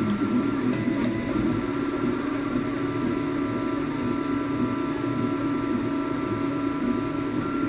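Ultimaker-clone 3D printer running, its stepper motors and fans giving a steady mechanical hum with several steady whining tones. A single sharp click about a second in.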